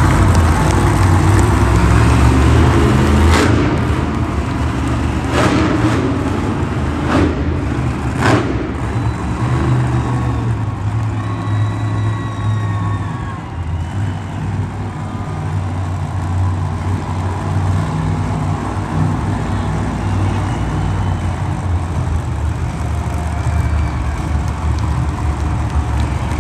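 Monster truck engine running with a heavy, low rumble. A few sharp bangs come a few seconds in.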